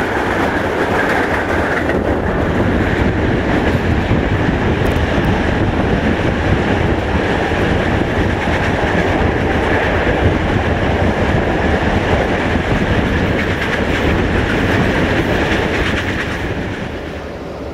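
Passenger train running at speed on the rails, heard from an open coach window: a steady rumble with the clickety-clack of wheels, while another passenger train's coaches rush past alongside at first. The noise drops off near the end.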